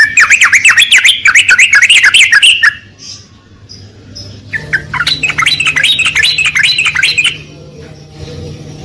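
Yellow-vented bulbul (trucukan) singing. It gives two loud runs of fast, bubbling, up-and-down chattering notes, each about three seconds long, with a pause of a second and a half between them. This is its lure song for drawing a caged bird into song.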